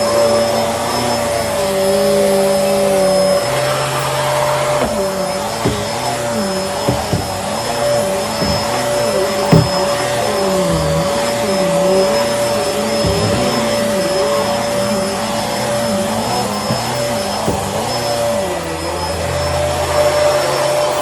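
Bissell Helix upright vacuum cleaner running steadily with a constant whine. A lower hum in its sound wavers up and down about once a second, and a few light knocks come through.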